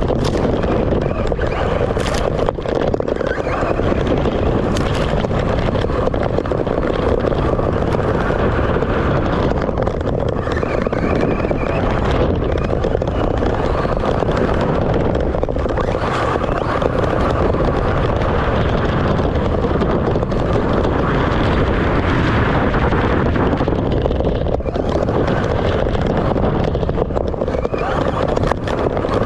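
Radio-controlled cars driving, their motors whining up and down in pitch now and then, under heavy wind noise on the microphone.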